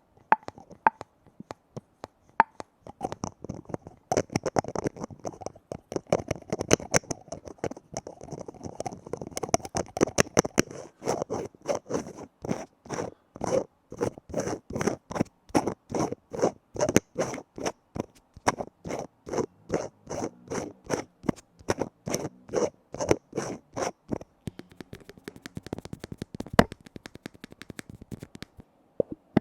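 Lids being tapped by hand in a fast, uneven run of sharp taps, about two to four a second, thinning out near the end with one louder knock.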